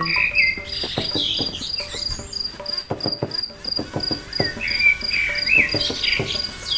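Cricket chirping in a steady, evenly pulsed trill, with short gliding chirps and scattered clicks and taps.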